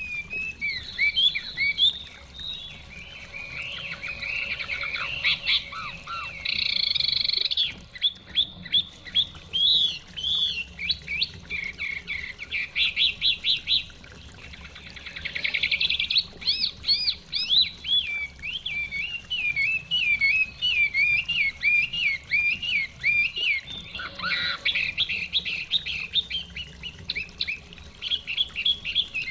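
Chinese hwamei singing a long, varied song of rapid trills, repeated notes and whistled warbling phrases, almost without pause.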